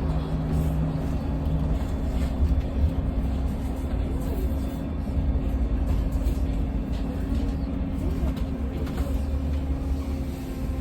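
Electric bus under way, heard from inside the passenger cabin: a steady low road and tyre rumble with a constant electrical hum.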